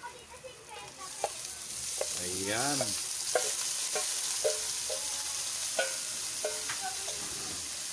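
Chopped octopus tipped from a bowl into hot oil in a wok, sizzling from about a second in, with scattered short knocks throughout.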